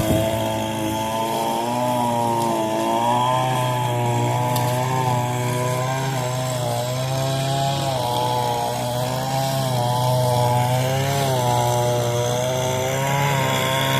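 Echo SRM-225 two-stroke string trimmer running, its engine pitch wavering up and down, with a Craftsman riding mower's engine running steadily underneath.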